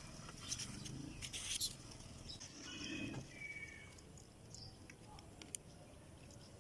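Faint, scattered bird chirps and short whistled notes, with a few sharp clicks.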